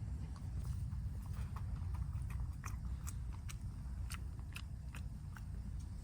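A dog eating chicken porridge from a bowl: irregular wet chewing and mouth clicks, a few a second, over a steady low rumble.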